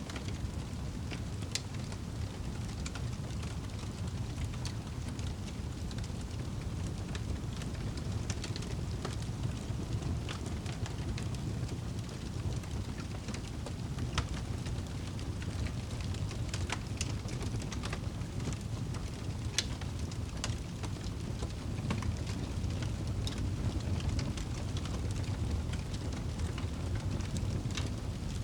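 Wood fire burning in a fireplace: a steady low rumble of the flames with scattered sharp pops and crackles at irregular intervals.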